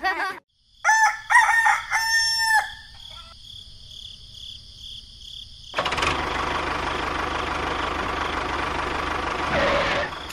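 A rooster crows, a pitched, broken call lasting about a second and a half. About six seconds in, a steady rushing noise starts and runs for about four seconds.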